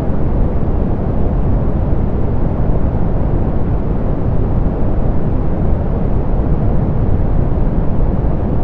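Soft pink noise: a steady, even rush with most of its energy in the low end and little treble, with no changes.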